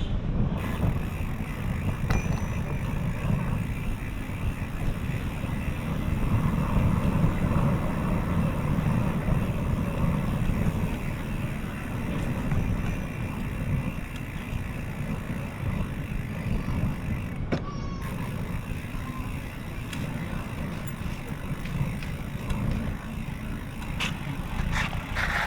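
Steady low rumble of wind and road noise picked up while riding a bicycle along city streets.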